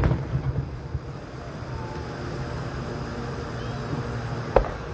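Fireworks going off at a distance: a sharp bang at the start with a few low thumps after it, and a second bang about four and a half seconds in, over a steady low rumble.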